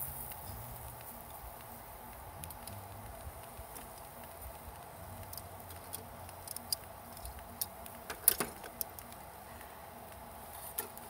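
Scattered light clicks and taps over a faint steady hum, with a sharper cluster of clicks about eight seconds in.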